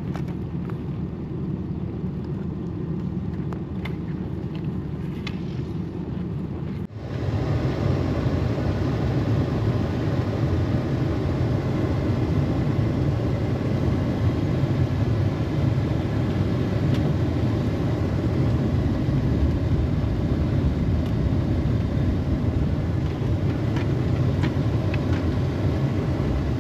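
A vehicle driving, its engine and road noise a steady low rumble. After a brief drop about seven seconds in, the rumble comes back louder.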